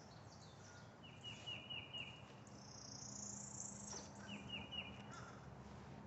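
A bird calling in two quick runs of short repeated high notes, the first about a second in and the second past four seconds. A faint high hiss swells and fades between them.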